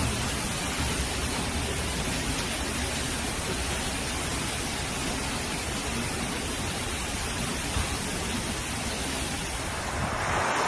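Heavy rain pouring down in a steady hiss. About ten seconds in, the sound changes to a brighter rushing with less low rumble.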